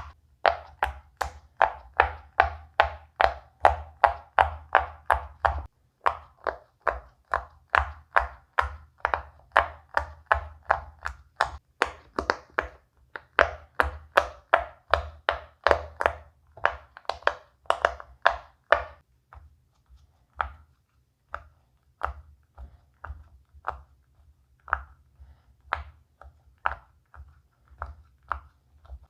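Silicone pop-it fidget toy bubbles being pressed in, one after another. A quick run of sharp popping clicks, about three a second, thins out to sparser pops about two-thirds of the way through.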